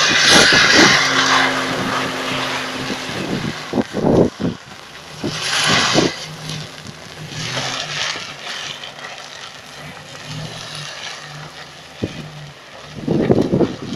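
Pickup truck engine running steadily under load off-road, broken by several loud rushing bursts as the spinning tyres throw up dirt.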